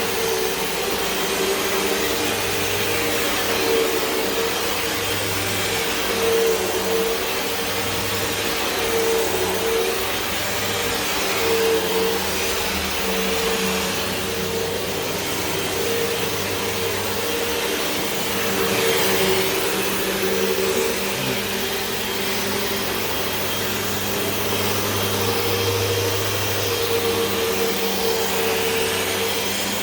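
Corded Hoover WindTunnel 2 Whole House Rewind upright vacuum running steadily, a continuous motor and airflow noise with a constant hum.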